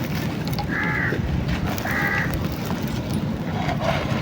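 Two harsh caws from a crow, about a second apart, over a steady low rumble.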